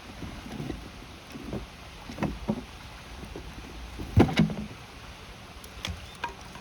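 Campfire by a steadily rushing river, with a series of irregular knocks and thumps, the loudest a double thump about four seconds in.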